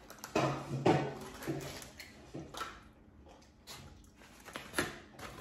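A squeeze bottle of ketchup being squeezed onto fries, giving a series of short wet squishes and sputters, the busiest in the first second or so.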